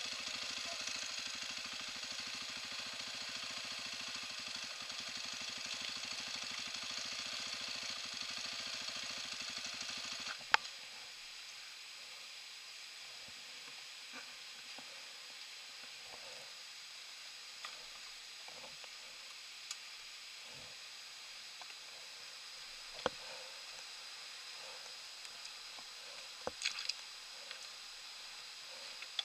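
Dirt-bike engine idling steadily, then switched off with a click about ten seconds in. What remains is a faint steady hiss with scattered light clicks, and a quick cluster of sharper clicks near the end.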